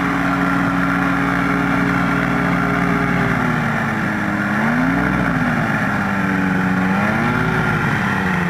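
Quicksilver GT 500 ultralight's engine and propeller running steadily while taxiing, then throttled back and opened up twice, the pitch falling and rising each time.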